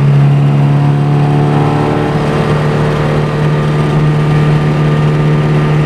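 Turbocharged Honda S2000 four-cylinder VTEC engine, swapped into a Datsun 240Z with a straight-piped titanium exhaust, droning at a steady cruise, heard from inside the cabin. The pitch holds steady with no gear change.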